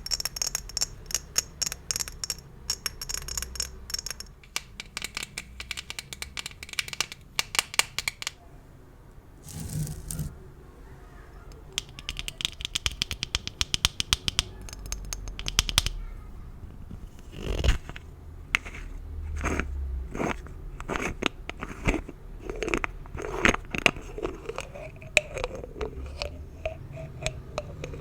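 Gift bows being handled for ASMR: fast runs of small taps, scratches and crinkles, broken by short pauses.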